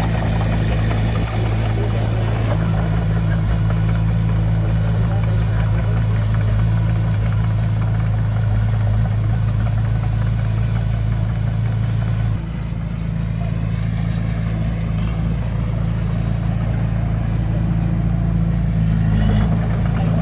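Heavy vehicle's diesel engine running steadily at an even low pitch, dipping slightly in level about twelve seconds in.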